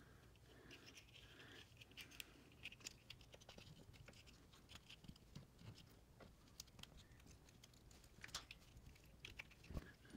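Faint, scattered small clicks and scrapes of brake caliper parts being handled while the caliper slide is refitted.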